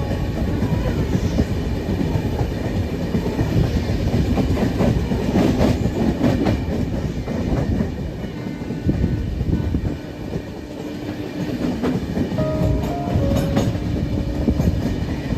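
Moving passenger train: a steady rumble of the running coach, with the wheels clacking over rail joints. Stepped musical notes come in a few seconds before the end.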